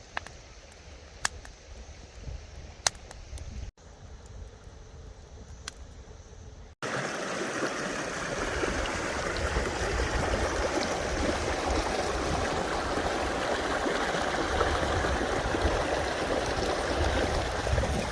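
Running creek water, a steady rushing that becomes loud and close about seven seconds in. Before that the water is quieter, under a low rumble and a few sharp snaps.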